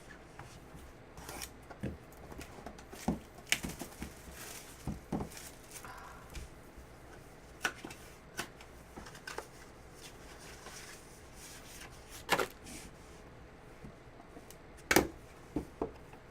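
A sealed trading-card box being opened and its cards handled: scattered clicks, taps and rustles of cardboard and plastic, with a few sharper snaps, the loudest near the end.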